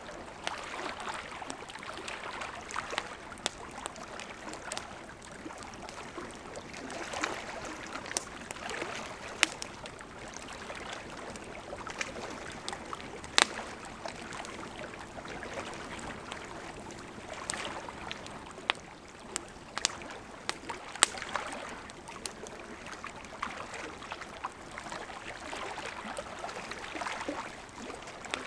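Campfire of burning wood with a steady hiss and frequent sharp crackles and pops. Two loud snaps stand out, one near the middle and one about three-quarters of the way through.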